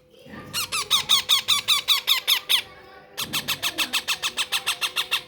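Baby parrot chicks food-begging while being fed: rapid, high-pitched repeated calls, about seven a second, in two runs of around two seconds each with a short break between.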